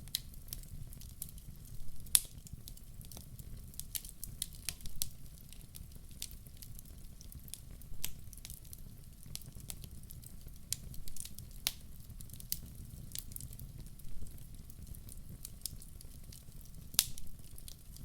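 Wood fire crackling: irregular sharp pops and snaps over a low steady rumble of the burning, with louder pops about two seconds in and near the end.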